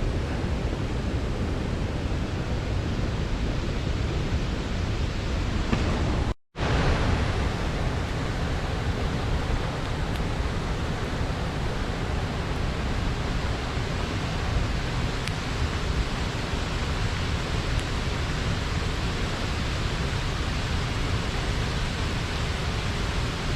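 Water rushing steadily over a small river weir, an even roar of falling water that cuts out for a moment about six seconds in.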